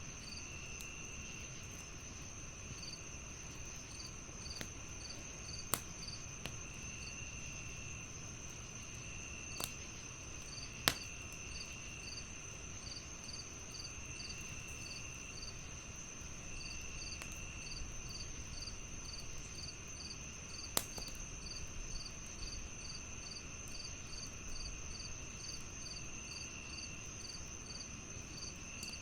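Crickets and other night insects chirping steadily: a constant high drone, a regular quick chirp, and a lower trill that comes and goes in one-second spells. A log fire crackles underneath, with a few sharp pops, the loudest about eleven seconds in.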